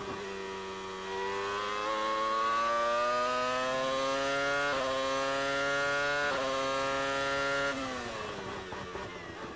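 Formula One V10 engine heard onboard, accelerating hard with its pitch climbing, two quick upshifts about two-thirds of the way through, then lifting off with the note falling away near the end.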